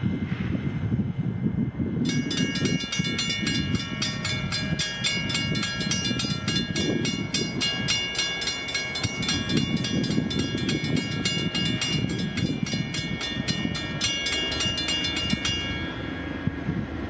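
A train rumbling past with a bell ringing rapidly over it, about three or four strokes a second, starting about two seconds in and stopping shortly before the end.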